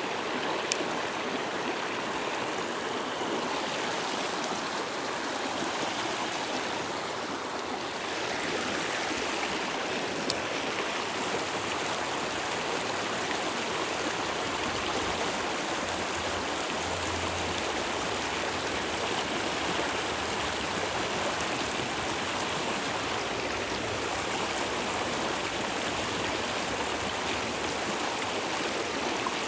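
Mountain stream rushing steadily over rocks. Two sharp clicks cut through it, one just after the start and one about ten seconds in.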